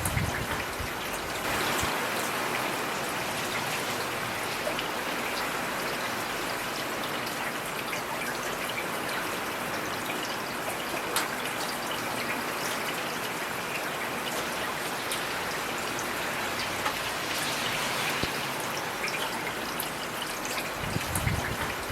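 Steady heavy rain: a dense hiss of falling rain with scattered sharper drops ticking on a surface.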